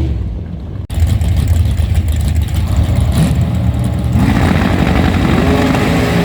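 Loud car engine noise with an abrupt cut about a second in to another stretch of engine sound; about four seconds in, a rising tone joins it.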